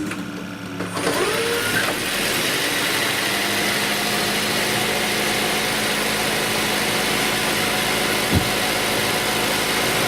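2008 Ford Escape Hybrid running after being switched on: a steady engine and fan noise that starts about a second in and holds even, with one short knock near the end. The A/C compressor clutch is not yet engaged.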